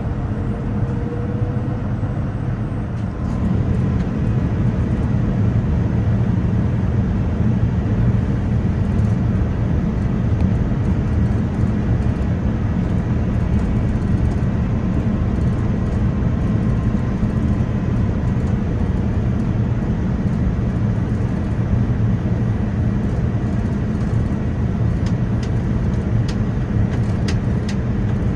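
Boeing 787-9 cabin noise in flight on the approach to landing: a steady low rumble of engines and airflow, a little louder from about three seconds in.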